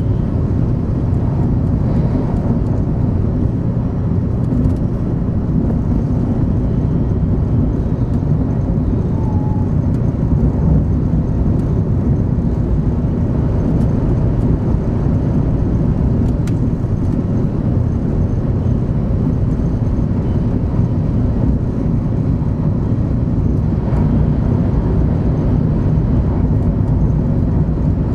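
Steady rumble of a Shinkansen 500 Series train running, heard from inside the passenger cabin.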